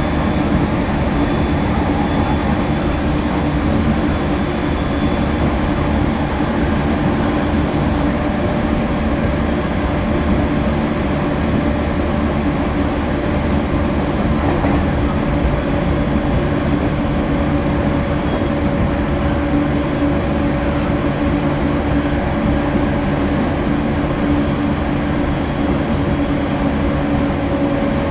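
JR East E231 series electric commuter train running steadily, heard from inside the passenger car: an even rumble of wheels on rail with a steady low hum, and a second, higher tone that joins about eight seconds in and holds.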